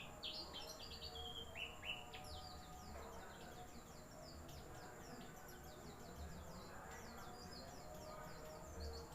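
White-eye (pleci) singing a long, fast twittering song of short high notes.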